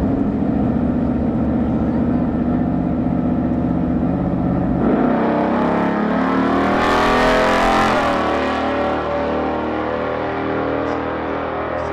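A 1970 Chevelle Malibu muscle car's engine running at a steady rumble, then revving up about five seconds in. The pitch rises to a peak a couple of seconds later, then eases back.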